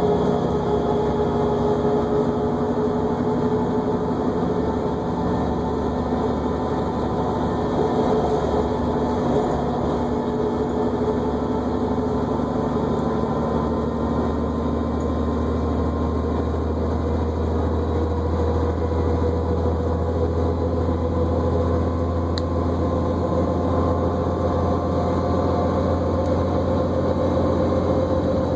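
New Flyer D40LFR diesel transit bus running, heard from inside the cabin, with a steady whine over the engine rumble. The whine drifts in pitch and climbs near the end as the rumble grows louder.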